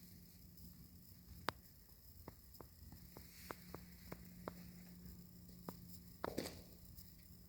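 A faint steady hum with about a dozen irregular sharp clicks and taps over it, and a short scuffling cluster near the end.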